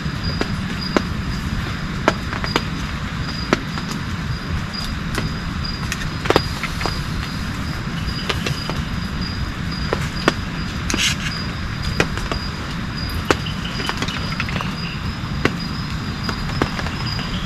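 Steady rain in a forest, with sharp irregular ticks of heavier drops striking, one or two a second and some loud, over a high insect call that pulses evenly throughout.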